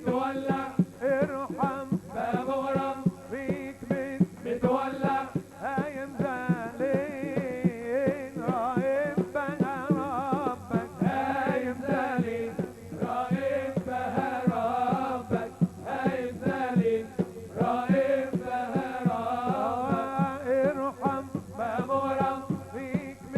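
Live Middle Eastern wedding music: a wavering, ornamented melody over a fast, steady drum beat.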